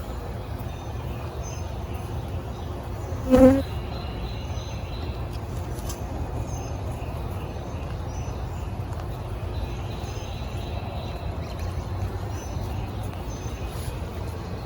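Honeybees humming steadily around an open hive during a frame inspection. A short, louder pitched sound comes about three and a half seconds in.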